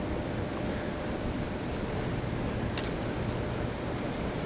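Steady roar of rushing water below a dam, with a single short click about three seconds in.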